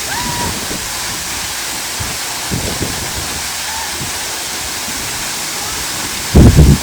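Steady rushing noise of a waterfall. A brief loud low thump comes near the end.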